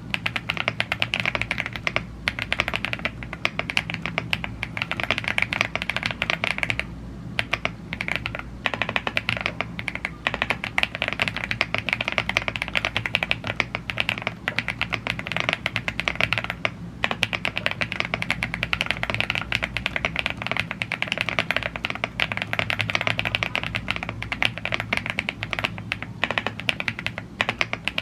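Continuous fast typing on a YUNZII AL75 gasket-mounted aluminium mechanical keyboard with Blue Grey tactile switches and double-shot PBT keycaps: a dense stream of key clacks, broken by brief pauses about seven and eight and a half seconds in.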